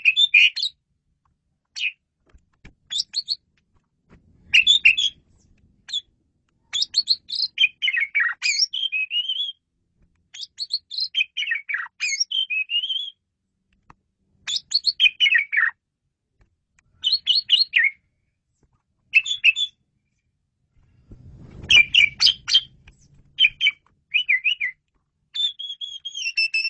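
Jalak suren (pied starling) singing: repeated bursts of fast, varied chirps and whistles, broken by short pauses, with a drawn-out falling whistle near the end.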